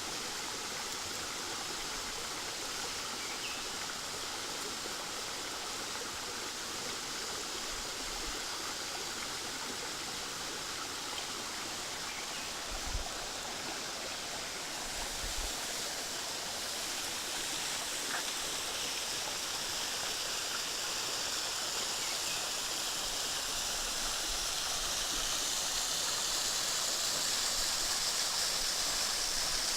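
Steady rushing of water from a waterfall and its stream, running low with little water. The rush grows a little louder and brighter over the last third, with a couple of faint low knocks in the middle.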